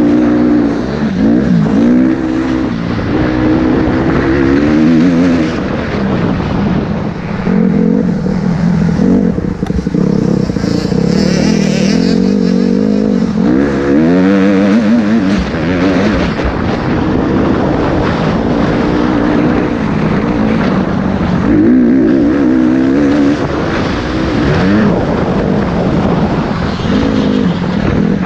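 Motocross bike engine being ridden hard, its pitch rising and dropping again and again as it revs through the gears and backs off.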